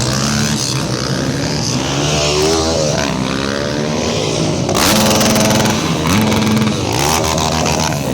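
Several trail motorcycle engines running and revving together, their pitches rising and falling as riders open the throttle. A louder, harsher burst comes about five seconds in and another near seven seconds.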